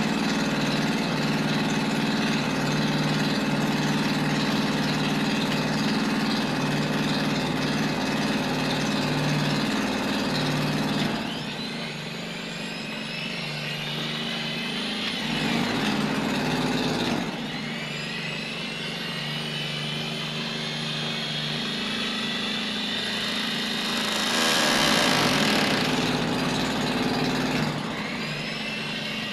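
Power Max angle grinder's electric motor, running on its newly fitted armature, with a steady whine. It is switched off and on again three times, and each time its whine rises in pitch as it winds back up to speed.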